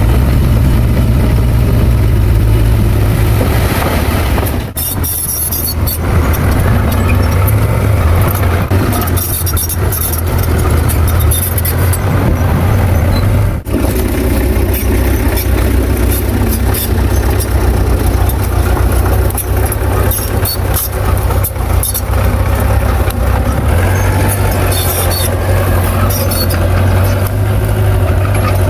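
Diesel engine of heavy earthmoving machinery running steadily with a deep low drone, over intermittent metallic clatter. The sound dips briefly twice, near five and fourteen seconds in.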